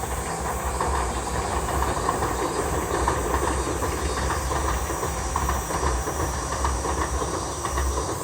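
Tobu Urban Park Line electric train running across a river railway bridge: a steady low rumble with a dense, rapid clatter of wheels on the rails, loudest about three seconds in.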